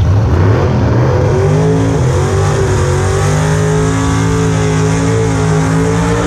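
Drag car engine revving up over about a second and a half, then held steady at high revs for several seconds.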